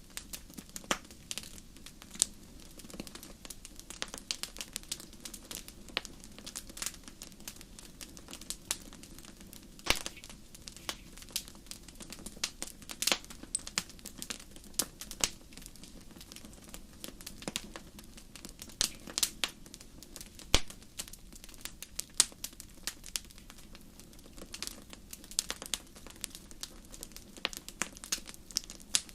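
Wood fire crackling in a fireplace: irregular sharp snaps and pops, some louder than others, over a steady low background of the burning flames.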